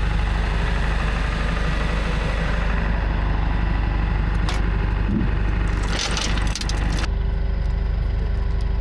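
Tow truck engine idling steadily with a constant low drone, with a sharp click about four and a half seconds in and a short metallic rattle about six seconds in.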